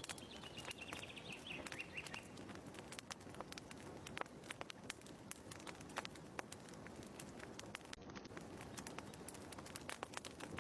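Wood fire crackling in a fireplace, a dense run of irregular sharp pops and snaps. A bird gives a falling, warbling call during the first two seconds.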